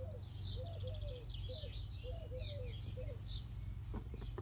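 Birds chirping in quick short notes, some high and some lower, over a steady low hum, with a few faint clicks near the end.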